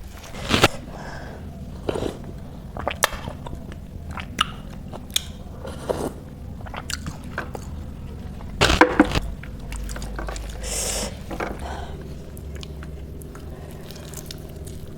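Close-up chewing and biting of food, with frequent short crunches and wet mouth clicks; the loudest burst of crunching comes about nine seconds in.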